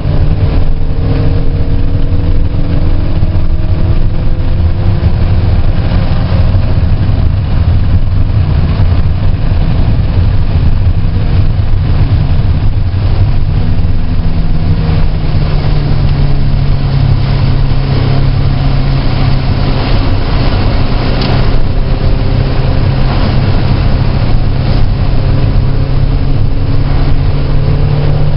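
A car's engine running hard on a race track, heard from inside the car: a continuous loud drone whose pitch slowly falls and rises again as the car slows for corners and accelerates out, over a constant rushing noise.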